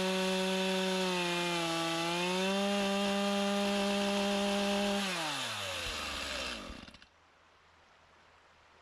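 Chainsaw running at high revs while cutting through a log, its pitch sagging briefly between about one and two and a half seconds in under load. About five seconds in the throttle is released and the engine winds down toward idle, then the sound cuts out abruptly.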